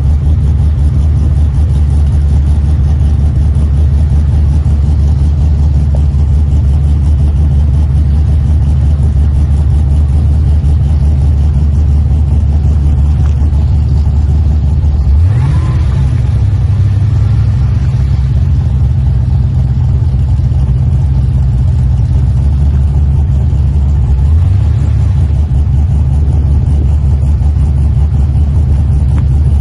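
Supercharged LSA V8 engine idling with a loud, steady exhaust note. The revs rise briefly in a throttle blip about halfway through, and again in a shorter blip about three-quarters of the way through.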